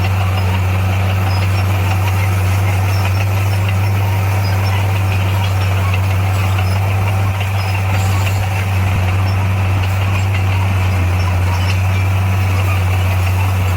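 Bulldozer's diesel engine running at a steady speed, a loud, even low drone that barely changes.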